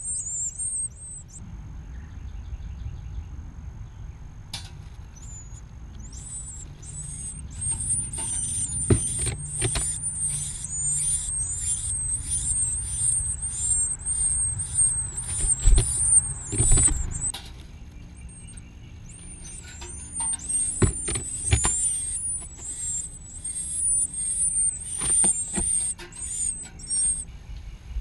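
Nestling birds begging with rapid, high-pitched cheeping in two long bouts, the chicks calling to be fed. A low rumble and a few sharp knocks sound underneath.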